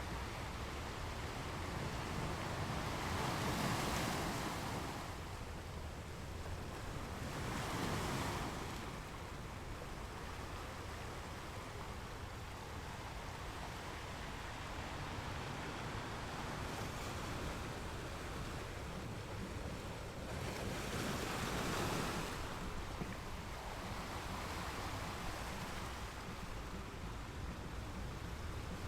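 Small ocean waves washing onto a beach, a steady surf hiss with three louder breaking surges: two in the first third and one later on.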